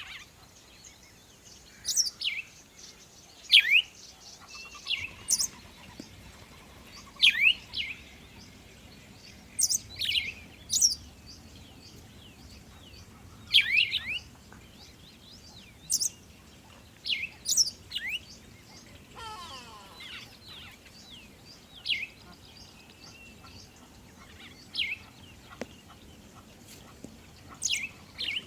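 Birds chirping: short, sharp notes that sweep down in pitch, repeated every second or two, with a softer twittering about two-thirds of the way through.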